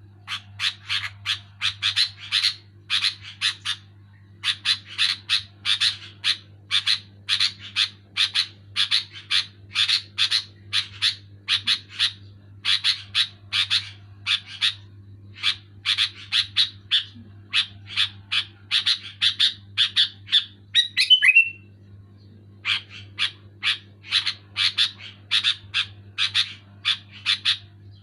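Sooty-headed bulbul (kutilang) calling loudly and continuously in rapid runs of short chattering notes, several a second. There is a brief break a little past two-thirds of the way through, and a steady low hum underneath.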